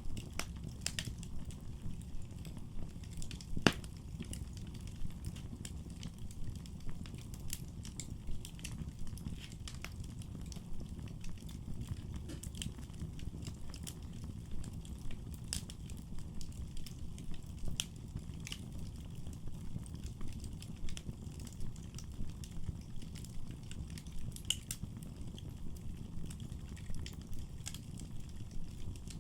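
Wood fire burning in a fireplace: a steady low rumble of flames with frequent sharp crackles and pops, one louder pop a few seconds in.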